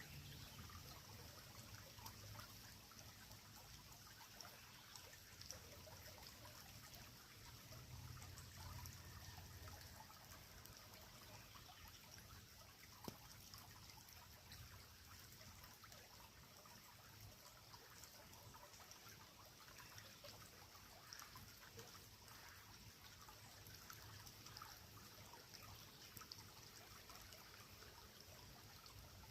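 Faint steady trickle of a flowing creek, with scattered faint clicks and one sharper click about 13 seconds in.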